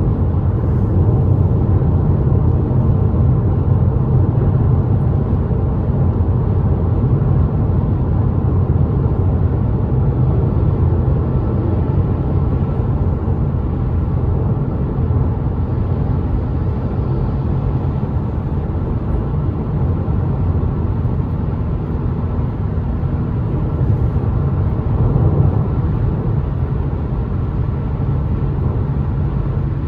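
Steady road and engine noise of a car driving at highway speed, heard from inside the cabin: a continuous low rumble.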